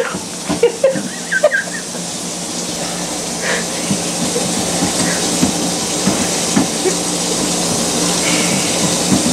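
A steady hiss with a low, even hum under it, setting in about two seconds in and growing slightly louder; a few short grunts come just before it.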